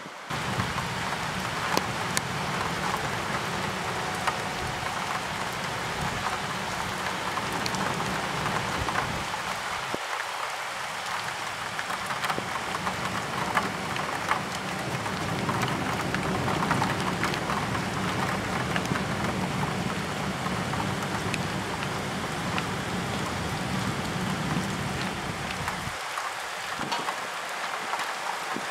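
Steady thunderstorm rain, with many drops ticking on a nearby surface. Under it runs a low rumble that breaks off briefly about ten seconds in and stops near the end.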